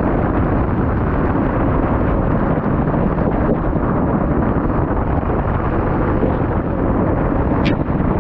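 Car sound system's bass playing very loud, overloading the microphone into a steady, dense rumble, with a brief high chirp near the end.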